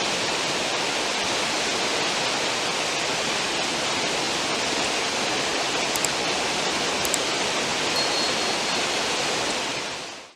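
Steady rush of churning water in a cruise ship's stern wake, fading out near the end.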